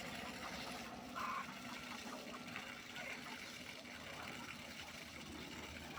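Water running steadily from a solar-pumped well pipe into an irrigation basin, with one brief short call about a second in.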